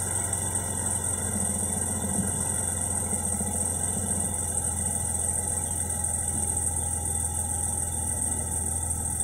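Mercedes M110 twin-cam straight-six engine idling steadily while still cold after a cold start at −2 °C, with a steady high-pitched hiss alongside.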